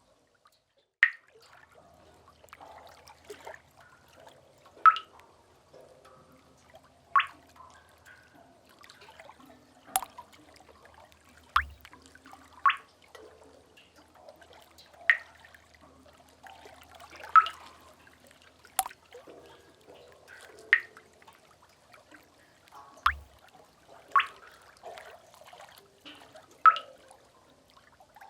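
Water drops falling one at a time into pooled water in a sea cave, about a dozen bright, pitched plinks at irregular gaps of one to three seconds, a few with a low plop under them. A faint low wash of water lies underneath.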